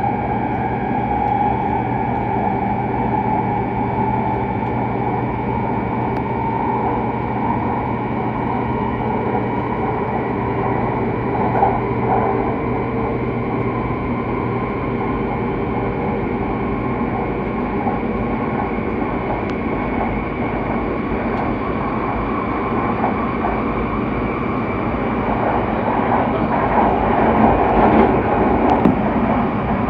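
Steady running noise heard inside the cabin of a Hokuriku Shinkansen E7/W7-series train travelling at speed, the continuous sound of wheels on rail and the air outside. It grows somewhat louder a few seconds before the end.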